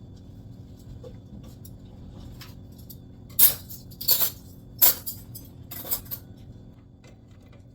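Kitchenware clinking: four sharp clinks and clatters between about three and six seconds in, over a faint steady hum.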